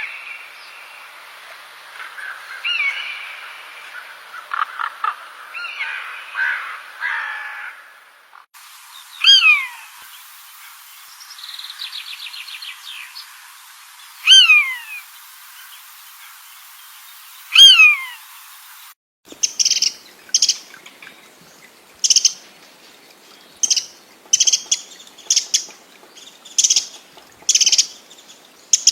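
Wild birds calling in three separate stretches. First comes a mixed chatter of calls. Then a loud call slides down in pitch, repeated about every four seconds, with a brief trill between. Last comes a quick series of short, high, sharp calls.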